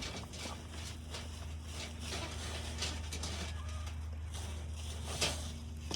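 Birds pecking at scattered scratch grain and dried worms: many quick, irregular taps, with one louder knock about five seconds in.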